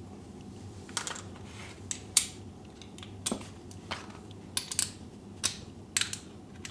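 Light metallic clicks and taps, about a dozen at uneven intervals, from hand tools and the oil drain plug as the plug is threaded back into the engine.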